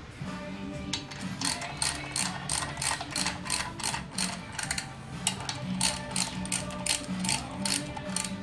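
Logan metal lathe's drive and gearing running, clicking at an even rhythm of about three to four clicks a second over a steady low hum; the clicking starts about a second in.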